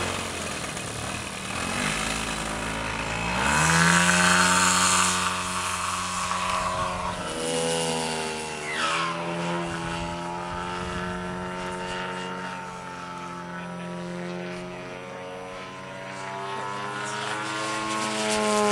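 Propeller engine of a large-scale radio-controlled model airplane running. Its pitch climbs sharply about three and a half seconds in, then holds high with slow rises and falls.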